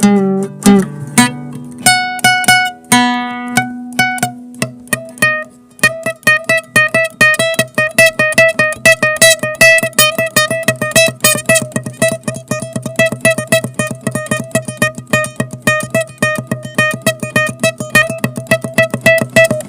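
Instrumental music on a plucked string instrument: a few separate notes for the first six seconds, then a fast, continuous run of rapidly repeated plucked notes.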